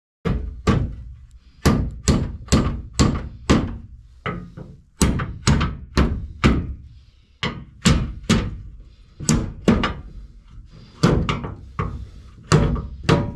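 Hammer blows, about two dozen sharp strikes in short runs of three to five, each ringing briefly: knocking out a part that is meant to come loose and fall out.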